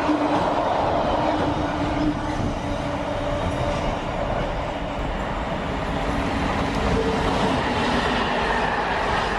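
Freight train passing at speed, its wagons rumbling steadily over the rails with faint whining tones from the wheels.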